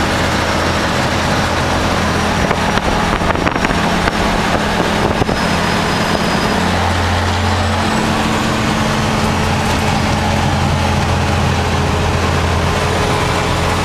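The diesel engine of a 1974 Peterbilt semi tractor running with a steady low drone, its pitch shifting a little around the middle. A few knocks or rattles sound between about two and five seconds in.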